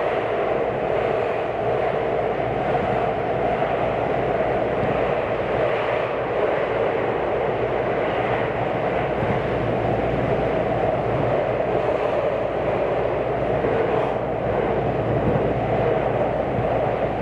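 JR West 227 series electric train running at a steady pace, heard from inside the passenger car: an even running noise of wheels on rail with no change.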